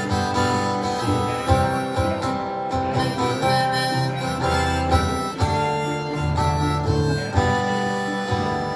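Harmonica playing held melody notes over a strummed acoustic guitar, an instrumental break between sung verses of a folk song.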